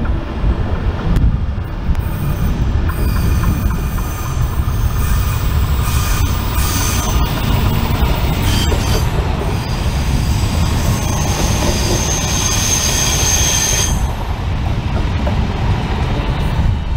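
A DB Class 643 Talent diesel multiple unit rolls past on a curve with a steady low rumble. High-pitched wheel squeal comes and goes as it takes the curve, and stops about 14 seconds in.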